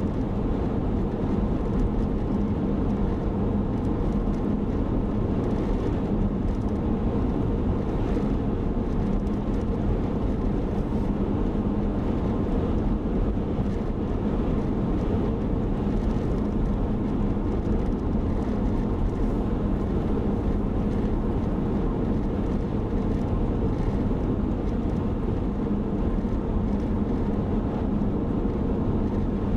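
Steady road noise inside a moving car's cabin: an even rumble of tyres and engine with a constant low hum, unchanging in level.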